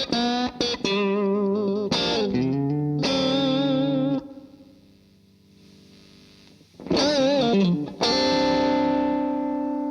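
Electric guitar through a DemonFX Breaker Drive overdrive pedal, playing overdriven lead phrases with bends and vibrato. Near the middle it stops for a few seconds and leaves only faint amp hiss. Then come a bent phrase and a long sustained chord.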